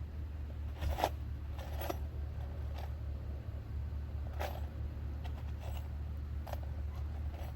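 Brief scrapes and rasps of hand work on wooden fence boards, scattered irregularly over a steady low rumble.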